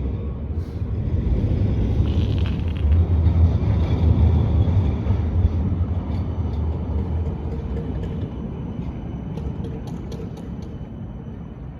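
Low rumble of road traffic, loudest a few seconds in as a vehicle passes and then slowly fading, with a few faint light clicks near the end.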